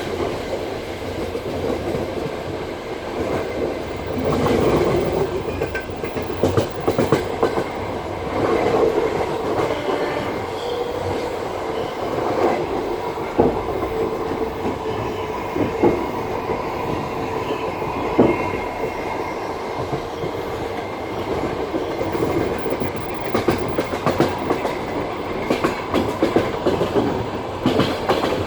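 Passenger train carriage running along the track: a steady rumble of the wheels on the rails, with a few sharp clacks over rail joints.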